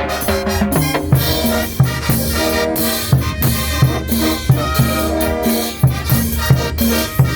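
Band music with drums and brass playing a steady, danceable beat.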